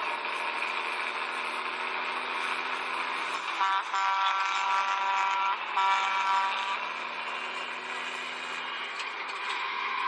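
A vehicle horn blares twice, a long blast of about two seconds and then a shorter one, over the steady drone of engines on the highway.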